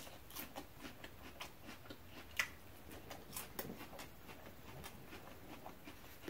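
Faint close-up chewing of a mouthful of salad: a run of small, irregular mouth clicks and crunches, a few a second, with one slightly louder click about two and a half seconds in.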